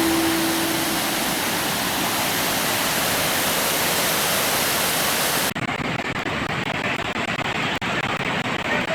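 Steady rush of falling water from a waterfall. About five and a half seconds in, the sound changes abruptly, losing its hiss and becoming a rougher, unsteadier rush.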